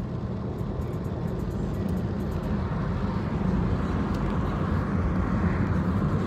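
Steady road and engine noise inside the cabin of a moving 2020 Chevrolet Malibu, a low even drone.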